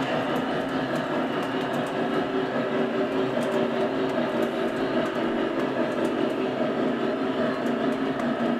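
Lionel O-gauge Union Pacific Big Boy 4000 model steam locomotive running with a passenger train: a steady running sound from the engine's onboard sound system and the wheels on the track, with faint clicks.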